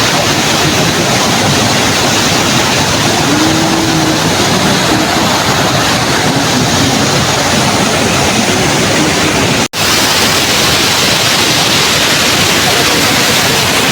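Loud, steady rush of a fast-flowing river, breaking off for an instant about ten seconds in.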